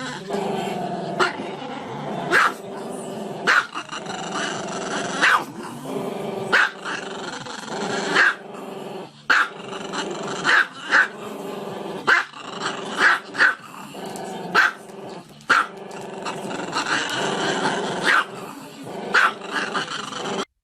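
A dog growling continuously, with short sharp barks breaking in about once every second or so.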